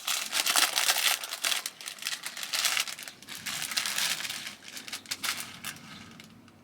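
Plastic wrapper of a packaged pastry slice being crinkled and pulled open by hand, with dense crackling that thins out and dies away near the end.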